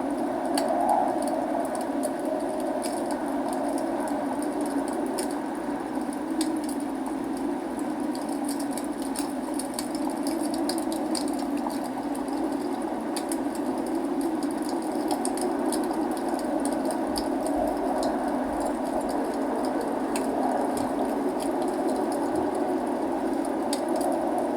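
Log fire crackling, with many small sharp pops and snaps over a steady rush of rain.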